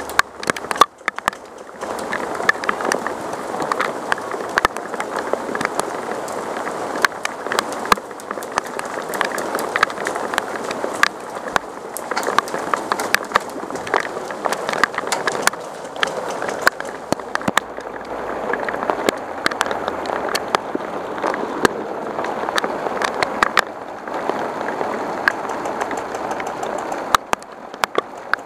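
Heavy rain falling, a dense steady patter with many sharp ticks of drops striking close by; it swells about two seconds in.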